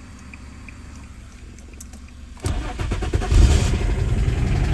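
2003 Infiniti G35's 3.5-litre V6 cranked by the starter about halfway through. It catches within a second with a brief rev flare, then settles into a steady idle: the newly programmed key has been accepted and the no-start is cured.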